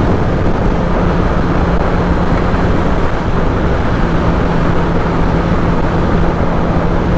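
Kawasaki ZX-10R inline-four engine droning at a steady cruising speed under loud, steady wind rush over the microphone. The engine's steady hum drops back briefly about three seconds in.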